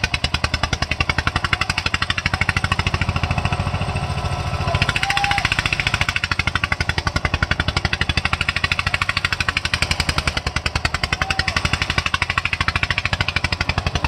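Eicher tractor's diesel engine running hard under heavy load, a steady, rapid, even beat that holds throughout.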